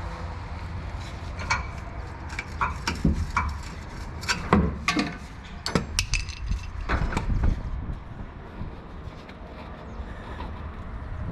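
Irregular metallic clanks and knocks from hand tools and rear-shock hardware being worked, about a dozen sharp strikes in the first two-thirds, over a steady low rumble.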